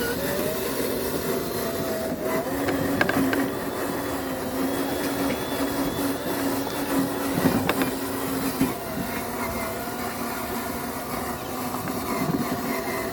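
Radio-controlled truck's electric motor and gearbox running with a steady whine, its pitch shifting slightly now and then, with a few sharp clicks.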